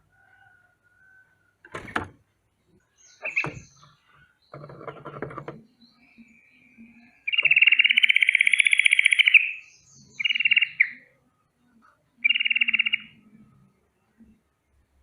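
Yellow-vented bulbul (trucukan) giving its rolling alarm trill: one long, fast trill of about two seconds, then two shorter ones. A few brief clicks and knocks come before it.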